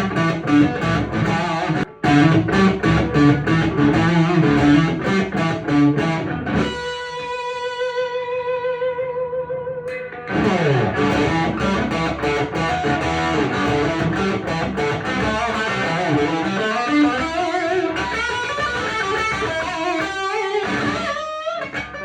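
Electric guitar, a 1997 Korean-made Epiphone Les Paul Custom, played through an amplifier. It plays fast runs of picked notes, then holds one note with vibrato for about three seconds, then goes on with more phrases that include string bends.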